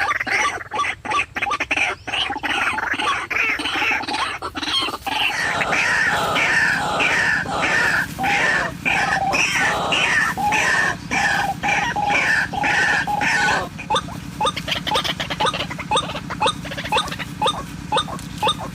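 White-breasted waterhen (ruak-ruak) calling, the lure call used to draw the birds in: a dense run of loud, overlapping croaking calls, changing at about 14 seconds in to a regular series of short notes about two a second. A steady low hum sits beneath from about five seconds in.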